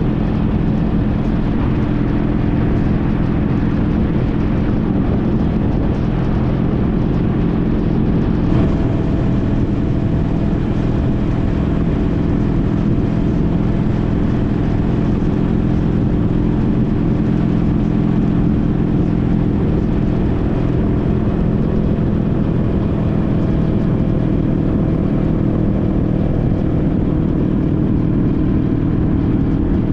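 Engine of a 2014 Honda CTX1300's V4 motorcycle running at a steady cruise, mixed with wind and road rush. The engine pitch holds level throughout.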